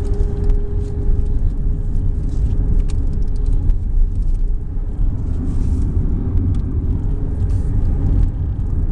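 A moving vehicle's steady low rumble of road and wind noise on a very windy day.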